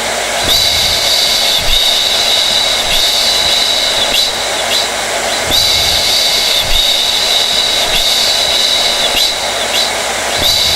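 Hair dryer running continuously: a steady rush of blown air with a high-pitched whine from its fan motor.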